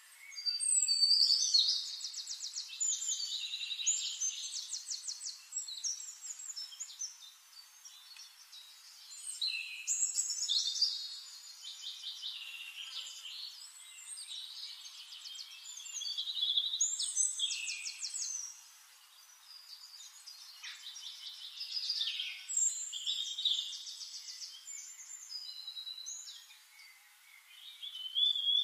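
Small songbirds singing: bursts of rapid high trills and chirps that come and go every few seconds.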